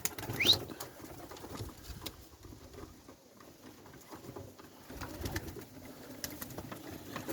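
Young pigeons in a loft cooing faintly, with scattered light clicks. One short rising squeak about half a second in.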